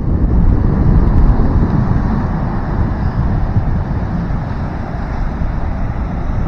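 Wind buffeting the microphone: a loud, steady, rumbling rush that swells and eases.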